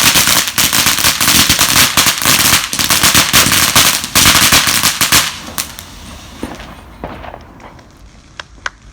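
Consumer fireworks crackling: a dense, loud stream of rapid pops for about five seconds, then thinning out to scattered pops, with a few sharp cracks near the end.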